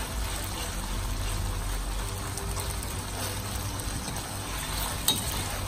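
Beef strips sizzling steadily in oil and sauce in a stainless steel pan as they are stirred with a wooden spoon, with a single light knock about five seconds in.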